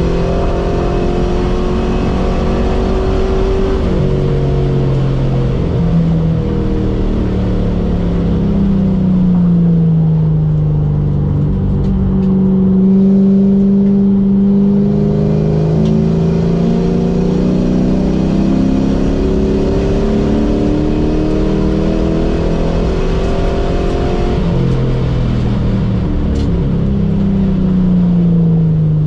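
Car engine heard from inside the cabin, pulling hard and easing off in turn: its pitch climbs under acceleration, drops suddenly a few times, and sinks when the throttle is lifted before it climbs again.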